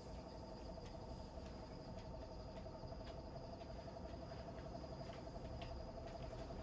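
Steady night chorus of crickets chirping in a fast, even pulse, over a lower continuous pulsing trill from frogs and a low rumble. A few faint clicks are scattered through it.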